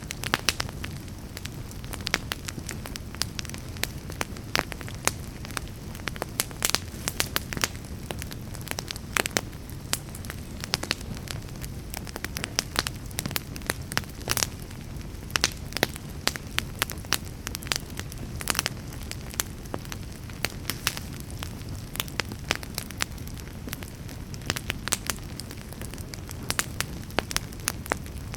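Wood fire burning in a fireplace: a steady low rumble of flames with frequent, irregular crackles and sharp pops of the burning wood.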